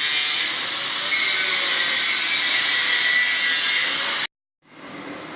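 Power tool running with a steady high whine and hiss, stopping abruptly about four seconds in.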